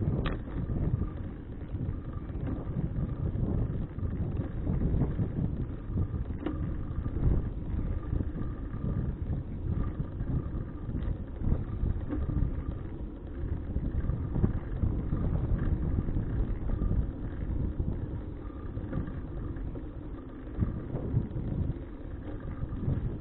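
Wind rumbling on the microphone of an action camera riding on a moving bicycle, a steady low buffeting that rises and falls.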